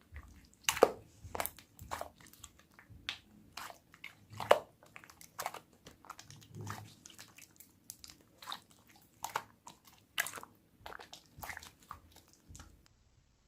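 Hands squeezing and poking clear slime, giving irregular sharp wet clicks and pops, about one or two a second, that stop near the end.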